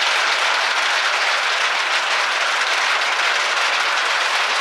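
Steady rain falling, a dense even patter.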